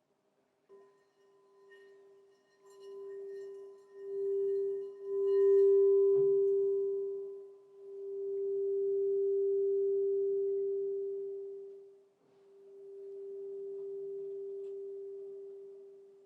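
Crystal singing bowl sounding one low, pure, steady tone that swells and fades in slow waves of a few seconds each. For the first six seconds a fainter higher ringing tone sounds above it, and a brief knock comes about six seconds in.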